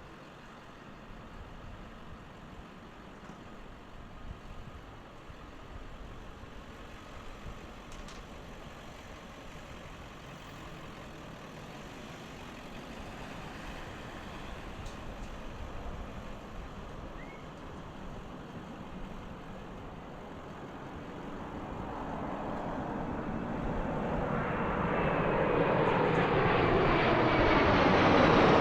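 Airbus A340-300's four turbofan engines approaching, rising from faint to loud over the last several seconds, with a high whine over the rush of the engines. Before that there is only faint steady background noise.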